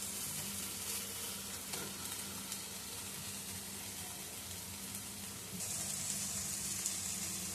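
Red amaranth greens (lal shak) with prawns sizzling in mustard oil in a frying pan, stirred with a few light scrapes of a spatula. The last bit of water is cooking off as the dish finishes. The sizzle grows a little louder near the end.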